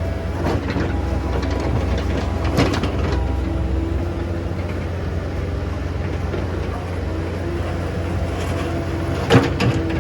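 Excavator's diesel engine running steadily with a faint hydraulic whine, and a few sharp knocks, the loudest near the end.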